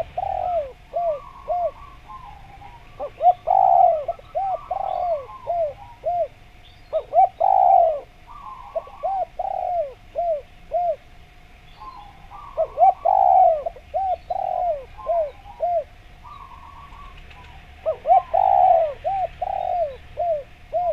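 Spotted dove (derkuku) cooing in repeated phrases: each phrase is a quick run of short, arched coos, four phrases a few seconds apart, with fainter higher chirps in between.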